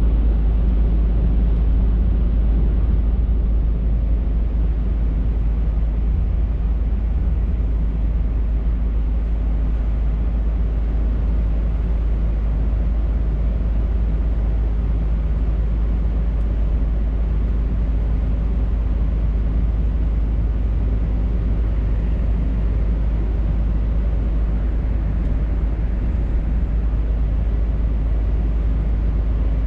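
Scania R580 truck's V8 diesel running steadily under way, a constant low drone mixed with road noise.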